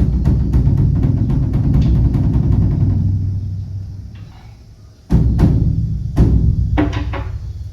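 Beopgo, the large Korean Buddhist dharma drum, beaten in a fast roll by a monk that fades away about four seconds in, followed by two heavy single strikes about a second apart.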